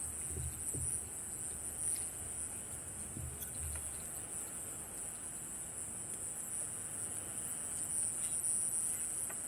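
Steady high-pitched chirring of night insects in summer, unbroken throughout, with a few low thumps in the first four seconds.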